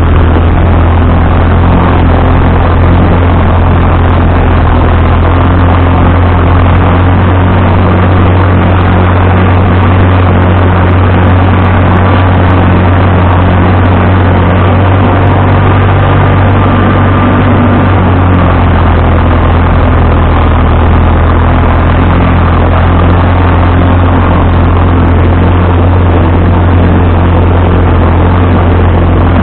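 Vintage tractor engine running steadily and loudly with a deep, even hum.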